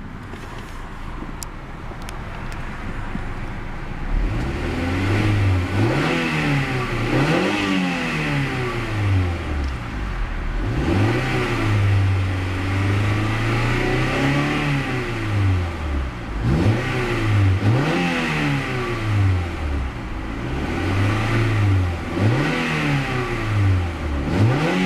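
1999 Honda Prelude's 2.2-litre DOHC VTEC four-cylinder engine idling, then revved again and again from about four seconds in, each rev rising and falling quickly, with one rev held higher for a few seconds in the middle.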